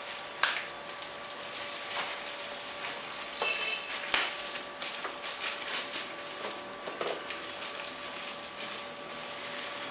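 Packaging crinkling and rustling, with a few sharp knocks, as foam RC glider tail parts are taken out of their wrapping. A faint steady hum runs underneath.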